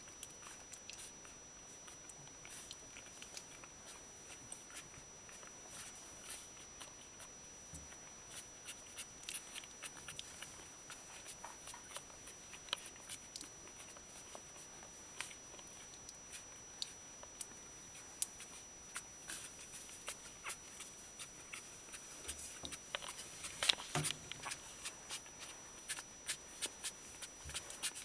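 One-week-old Shiba Inu puppies stirring, with many small scattered clicks and rustles and one brief louder sound a few seconds before the end.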